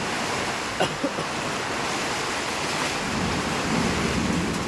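Heavy rain pouring down in a steady, dense hiss, with a couple of brief faint ticks about a second in.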